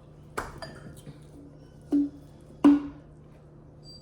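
A handful of sharp knocks and clinks of dishes and utensils being handled at the table, the last two louder with a short hollow ring. A faint steady hum lies underneath.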